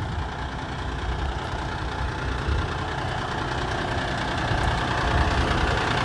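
Diesel engine of a brand-new 2022 Kenworth T880 tri-axle truck idling with a steady low rumble, gradually growing louder.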